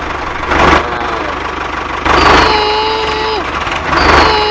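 A small engine running with a steady, even chug. Over it come three whooshes; the last two are each followed by a held tone lasting about a second that drops in pitch as it ends.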